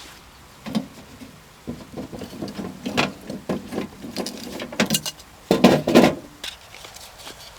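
Irregular rustling and knocking in several bursts, the loudest about three-quarters of the way through.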